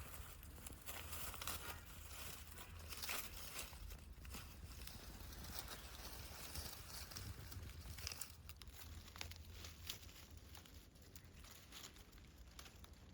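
Faint rustling and crinkling with many scattered light clicks, over a low steady hum; the rustling thins out after about eight seconds.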